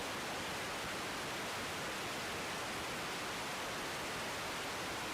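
Steady, even radio hiss from the air traffic control feed, heard with the channel open between transmissions.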